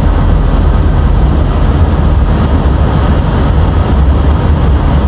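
Steady, loud rumble of airflow and engines on the flight deck of an Airbus A320 climbing out after takeoff, with the energy concentrated low.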